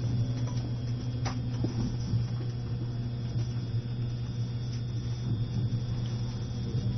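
Steady low hum of an E653 series electric train running slowly, heard from inside the car, with a faint high steady whine and a few light clicks.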